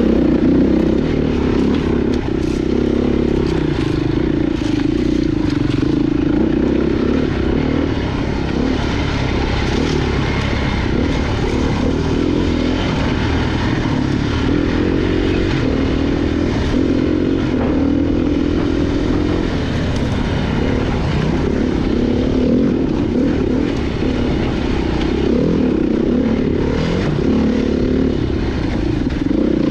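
Dirt bike engine running continuously, its revs rising and falling, with scattered clatter and knocks.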